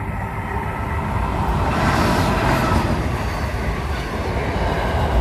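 Pacific National diesel freight train passing close by: a rumble and rush of noise that builds over the first two seconds and stays loud.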